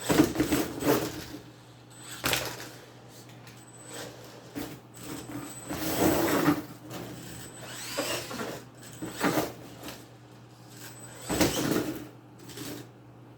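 Mini RC monster truck driving in short bursts over cardboard boxes, its tires and body knocking and scraping on the cardboard. There are about five bursts a few seconds apart.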